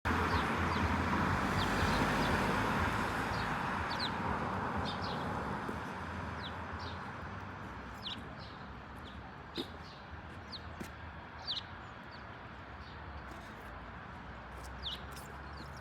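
Short, high bird chirps, a dozen or so scattered through, over a steady background noise that slowly grows fainter.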